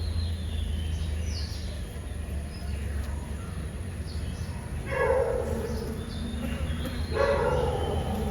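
A neighbourhood dog barking: two short bouts of barks about two seconds apart, in the second half, over a steady low hum. Faint bird chirps come in the first couple of seconds.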